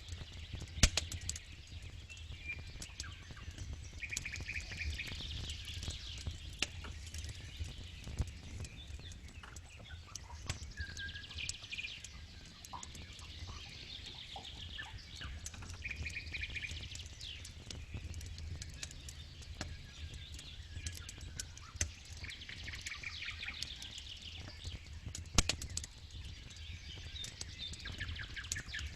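Campfire crackling with scattered sharp pops, two of them much louder: one about a second in and one near the end, over a low steady rumble. Birds chirp and trill every few seconds in the background.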